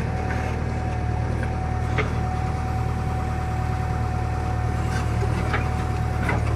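JCB machine's diesel engine running steadily with a deep, even drone and a constant thin whine above it. A few short sharp chirps or clicks cut through about two seconds in and again near the end.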